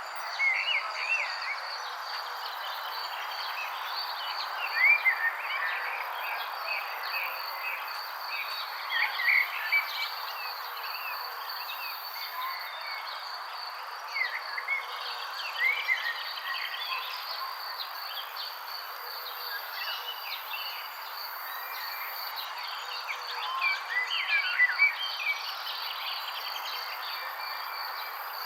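Birds chirping in short clusters every few seconds over a continuous high insect trill, with a steady background hiss.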